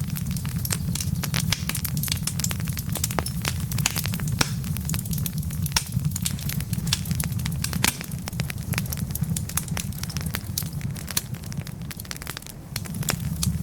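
Wood fire burning with a dense, irregular crackle of sharp pops over a steady low rumble of flame; the rumble eases for a few seconds near the end.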